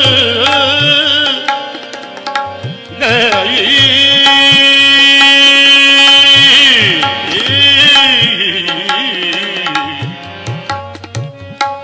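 Gurbani kirtan: a singer holds long, wavering, ornamented notes without clear words, over tabla strokes.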